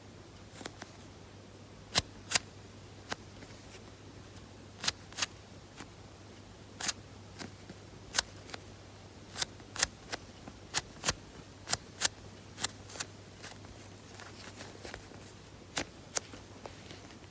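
Hands handling squishy toys, making a series of sharp clicks and taps. Many come in pairs about half a second apart, over a low steady hum.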